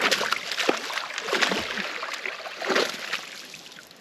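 Water splashing and sloshing, loudest for the first three seconds and fading toward the end.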